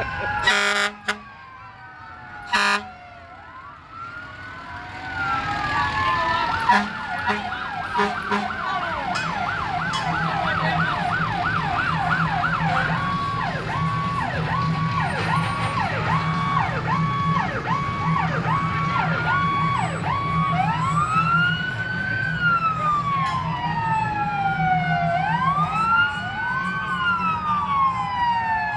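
Fire truck sirens sounding as the trucks pass, several at once, switching between slow rising-and-falling wails, a fast yelp and a quick two-tone pattern, over the steady hum of the truck engines. Near the start, two short horn blasts.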